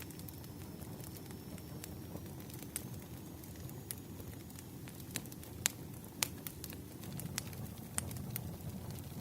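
Wood fire crackling: a steady low rumble of burning logs with scattered sharp pops, the loudest two a little past halfway.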